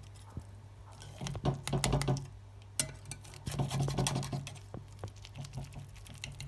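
A serving utensil scraping and clinking against a dish as pasta bake is scooped out: a run of irregular clicks and scrapes.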